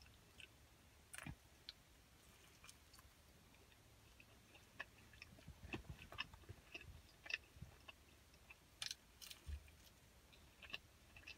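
Faint chewing of a chicken nugget: soft scattered mouth clicks, growing busier about halfway through.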